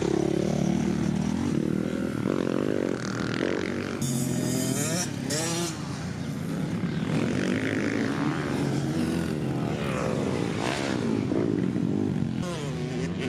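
Dirt bike engines running on a motocross track, revving up and down repeatedly.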